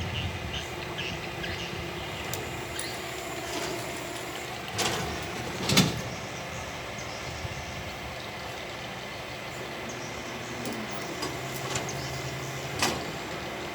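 Excavator engine running steadily, with a few sharp knocks, the loudest about six seconds in and another near the end.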